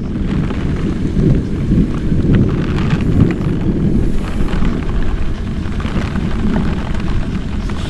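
Steady low rumble of wind and rain buffeting a helmet chin-mounted microphone on a Kawasaki Ninja 400 motorcycle riding in heavy rain, with the engine running underneath.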